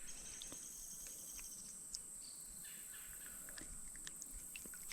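Faint, steady high-pitched insect chorus, with scattered faint clicks.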